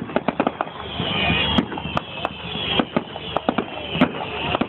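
Fireworks going off: a rapid crackle of bangs at the start, then single sharp reports every half-second or so.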